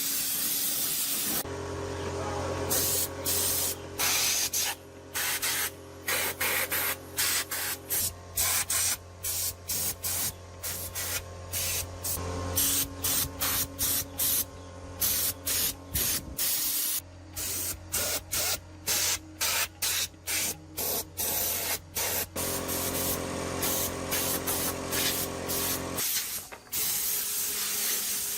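Spray gun hissing in many short bursts, about one or two a second, over the steady hum of a running motor that starts about a second and a half in and stops near the end.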